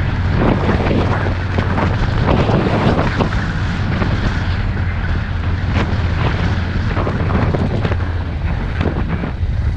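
A vehicle driving on a rough unpaved track: a steady low engine and road drone with wind buffeting the microphone, and scattered knocks and rattles from the bumpy surface.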